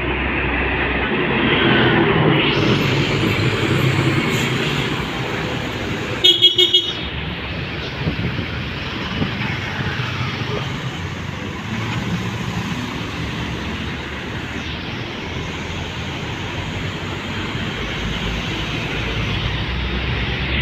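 Road traffic passing steadily, with trucks going by; about six seconds in, a vehicle horn toots three quick times.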